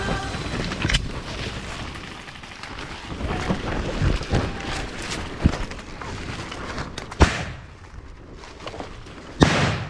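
Scattered sharp bangs in an airsoft skirmish, single cracks a few seconds apart over a rumbling background, then a louder half-second burst of pops near the end.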